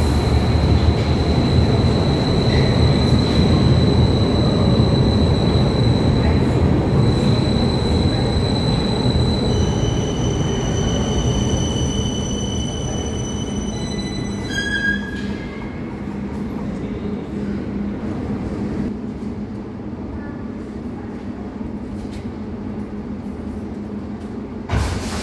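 Berlin U-Bahn type JK train running on the track: a loud low rumble of wheels with a steady high electric whine. About ten seconds in the whine shifts to several higher tones, and it stops about fifteen seconds in. The rolling then goes on more quietly as the train slows.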